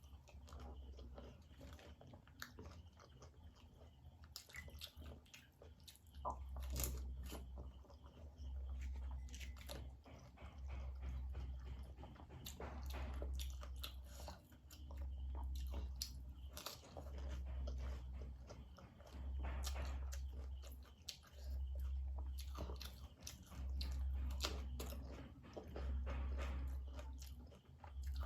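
A person biting and chewing panipuri, the crisp puri shells crunching and cracking between the teeth in scattered crunches. From about six seconds in, a low throb swells and fades about every two seconds beneath the chewing.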